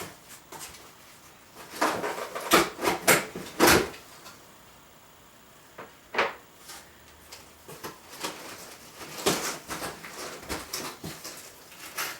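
Irregular knocks and clatters of hard objects being handled and set down, thickest about two to four seconds in and again around nine to ten seconds.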